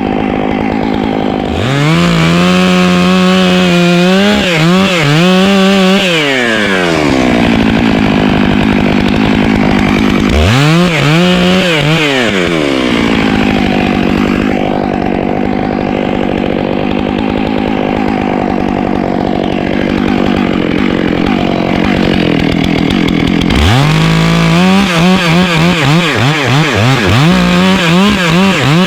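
Chainsaw cutting through a tree trunk to drop the top, alternating between idle and full throttle. It opens up about two seconds in for a five-second cut with the pitch dipping under load, revs briefly around ten seconds, idles, then goes back into the wood near the end, the engine pitch rising and falling rapidly.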